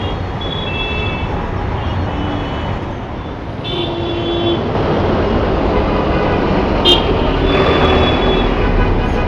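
Dense road traffic running steadily, with several short horn toots and a sharp click about seven seconds in; the traffic grows louder about midway.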